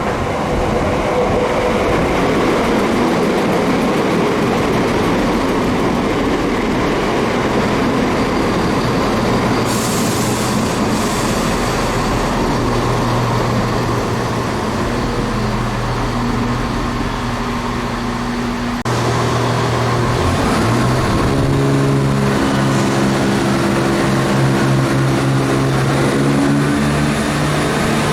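Diesel train running through the station, its engine note steady, then changing abruptly about two-thirds of the way in and shifting in steps.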